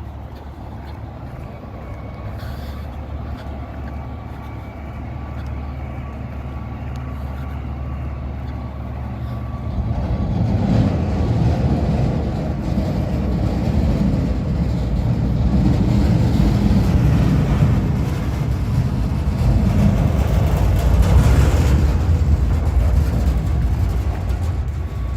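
Recycling garbage truck's diesel engine running, its low rumble building steadily and then growing much louder from about ten seconds in as the truck draws close.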